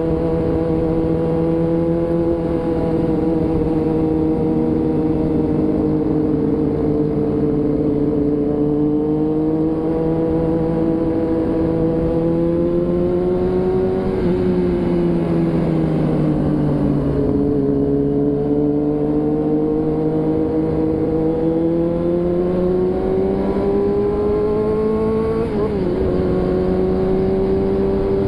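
Motorcycle engine running steadily under way, its pitch slowly rising and falling with speed, with small quick pitch changes about halfway through and again near the end.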